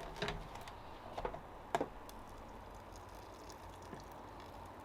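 A few light knocks and clinks of a container against the cooking pot in the first two seconds as water is added to rinse out the blended tomatoes, then a faint steady background.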